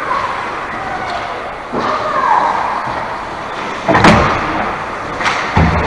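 Two sharp slams during a game, the loudest about four seconds in and a second shortly before the end, over steady game and crowd noise.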